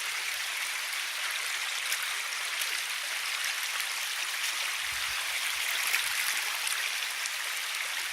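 River water flowing steadily, an even rushing hiss with no change in level.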